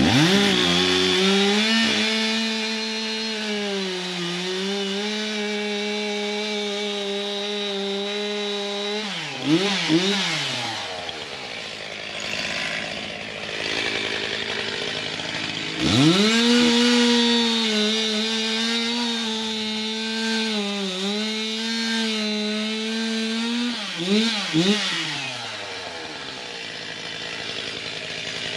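Stihl two-stroke chainsaw held at full throttle for about eight or nine seconds, its pitch sagging a little under load, then blipped a few times and dropped to idle. The same happens again: a second long full-throttle run starting about halfway through, which ends in quick revs and a fall back to idle near the end.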